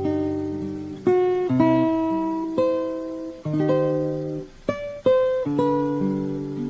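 Background music: a plucked acoustic guitar playing a melody, each note starting sharply and ringing on.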